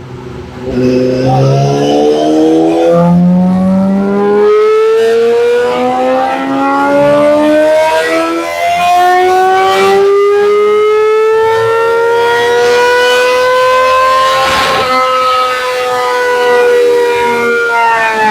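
2013 Yamaha R6's 600 cc inline-four with a full Arrow exhaust on a wide-open dyno pull. It revs up through quick upshifts for the first few seconds, then climbs in one long rising howl towards redline. A sharp crack comes near the top, then the revs hold and fall away near the end as the throttle closes.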